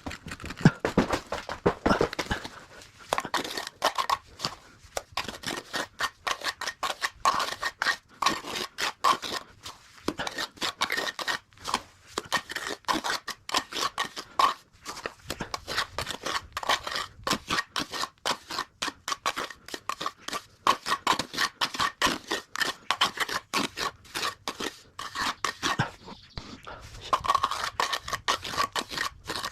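A metal tool scraping through wet cement mortar in quick repeated strokes, several a second: cement being worked and spread by hand.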